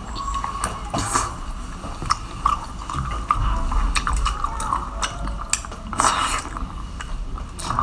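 Wet chewing and smacking of seafood, with many short clicks and crackles following one another.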